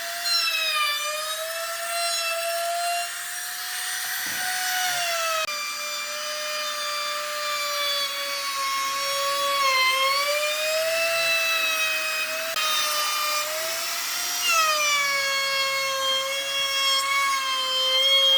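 An electric power tool working wood, its motor giving a high whine whose pitch sags and recovers several times as the load changes, over the hiss of the cut.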